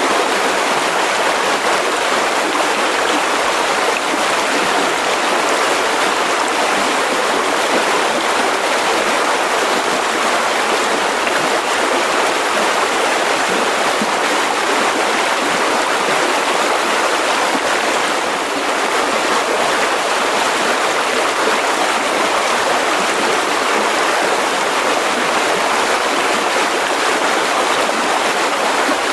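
Mountain river rushing steadily over rocks, a constant even splash and burble.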